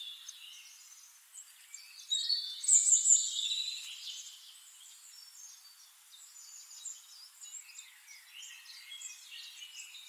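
Birds chirping and calling: many short, high chirps and whistles overlapping, loudest about two to three and a half seconds in.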